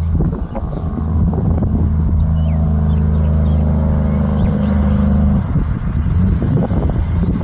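Heavy truck's diesel engine passing under power, a steady low drone that holds until about five and a half seconds in, then turns rougher and less even.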